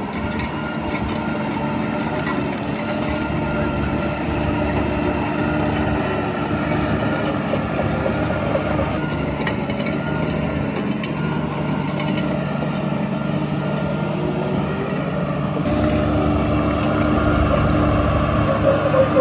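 Heavy diesel engine of earthmoving machinery running with a steady drone. It grows louder and deeper about three-quarters of the way through.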